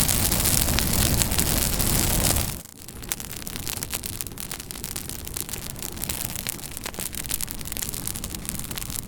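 Campfire crackling and popping, with many sharp snaps. A louder steady rushing hiss lies under it for the first two and a half seconds, then cuts off suddenly, leaving the crackles over a softer hiss.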